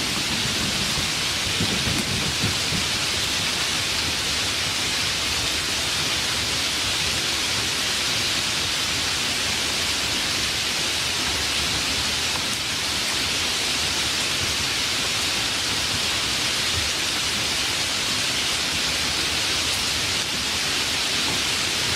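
Steady heavy rainfall, an even hiss of drops. A low rumble of thunder trails off in the first couple of seconds.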